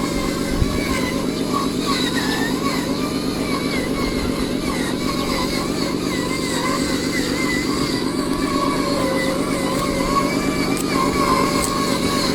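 Radio-controlled model truck running steadily: a continuous engine-like rumble with a fast even pulse, over a thin whine that wavers up and down in pitch.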